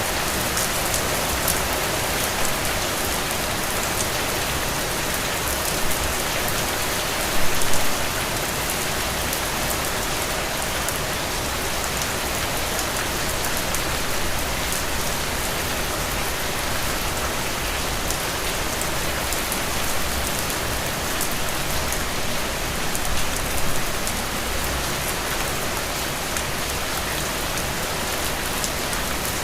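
Heavy rain falling steadily, a dense even hiss with individual drops ticking through it. It swells briefly louder twice, about a quarter of the way in and again near the end.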